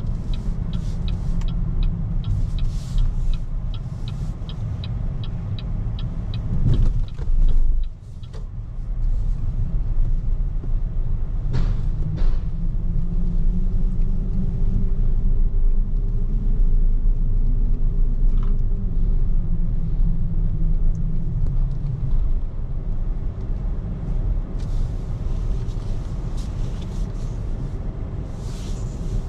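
Steady low road and tyre rumble of a BYD Seagull electric car driving, with no engine note. A rapid, even ticking runs through the first five seconds, and the rumble swells briefly about seven seconds in.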